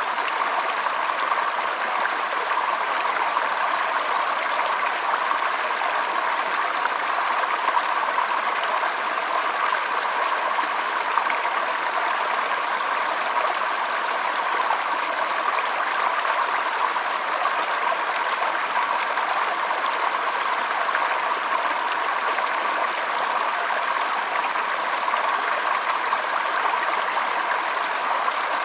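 Shallow stream of water trickling and gurgling steadily over stones, a constant even rush.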